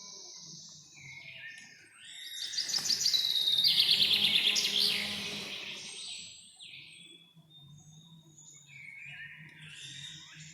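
Several birds singing and calling in a forest, with short whistled notes and slides. About two and a half seconds in, one bird gives a loud, rapid trilling song lasting about three seconds.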